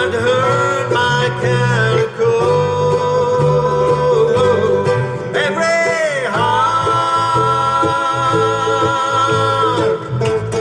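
Live acoustic band music with banjo and guitar under long held melody notes, with a swooping bend in pitch about six seconds in.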